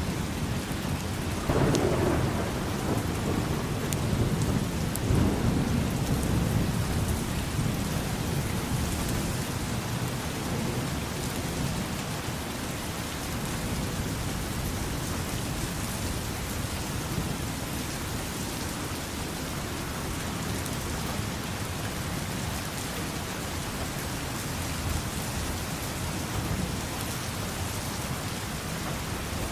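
Steady rain falling, with a low rumble of thunder that swells about two seconds in and dies away over the next few seconds.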